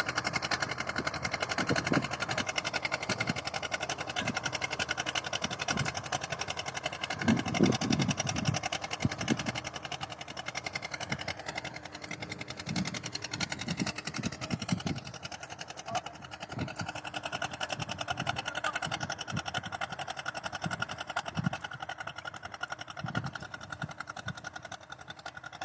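Tractor engine running steadily with a rapid, even beat, its level slowly dropping toward the end.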